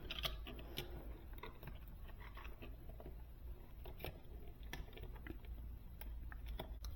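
Faint handling noises of thermostat wire being worked by hand: scattered small clicks and rustles over a low steady hum.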